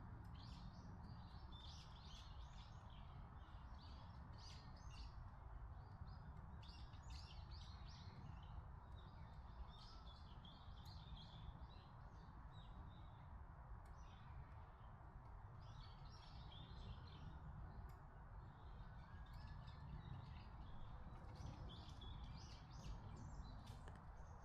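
Small birds chirping and twittering in quick clusters of short high calls, with brief lulls, over a faint steady low rumble of background noise.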